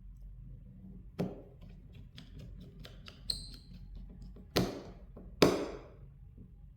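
Small hard objects handled on a work surface: scattered light taps and clicks, a short high metallic ping, then two louder knocks about a second apart near the end, each with a brief ring.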